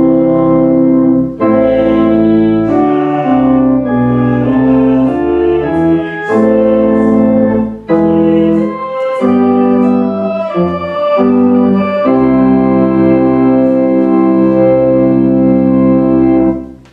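Organ music: slow chords that change every second or two, ending on a long held chord that stops near the end.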